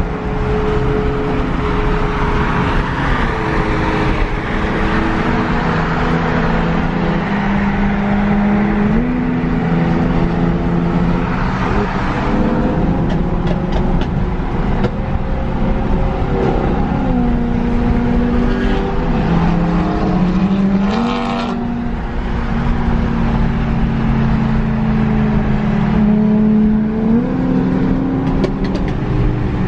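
Car engine heard from inside the cabin while cruising on a highway, over steady road and tyre noise. The engine note changes pitch every few seconds as the revs go up and down.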